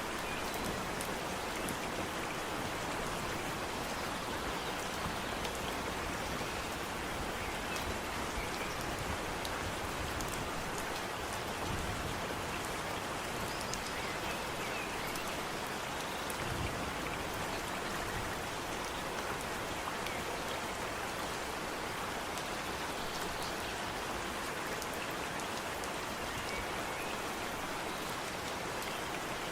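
Steady rain falling on foliage and ground, an even hiss with scattered individual drops.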